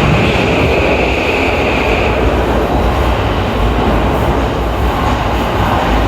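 Train running in an underground station, a steady loud rumble and rolling noise. A steady high ringing tone sounds over it and stops about two seconds in.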